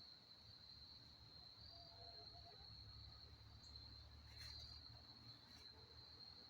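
Faint, steady high-pitched trill of crickets, swelling slightly every couple of seconds, with a low rumble through the middle.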